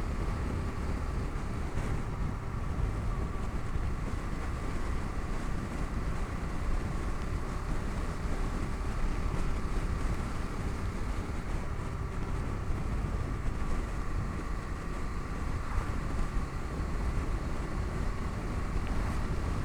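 Bajaj Dominar 250 single-cylinder engine running at a steady cruise under a riding motorcycle, with wind rushing over the microphone.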